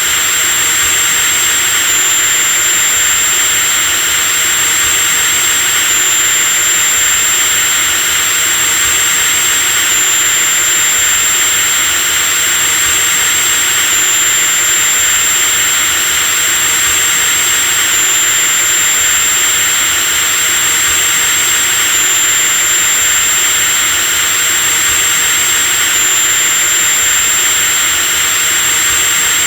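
Electric drill running steadily at constant speed: a continuous hissing motor noise with a high, steady whine above it. The whine shifts slightly about every four seconds.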